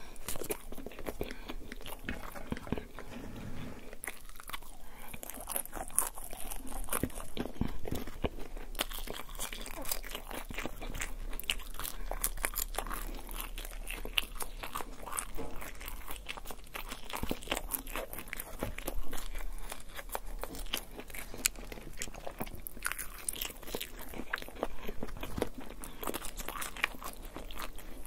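Chewing and crunching of a chicken quesadilla and fried potato chips, close to the mouth, with many small crisp clicks of biting and chewing.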